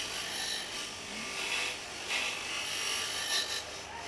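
Hand rubbing and scraping strokes on the sealing face of a timing chain cover, a series of uneven rasping passes as the old gasket surface is dressed for a new gasket.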